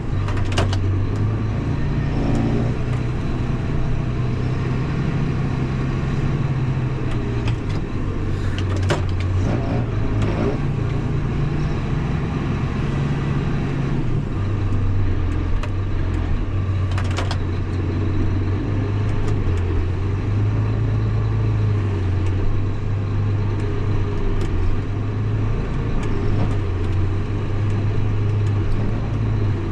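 Engine of a blade-equipped machine running steadily under load while pushing snow, its pitch dropping and rising a few times as the revs change, with a few short knocks.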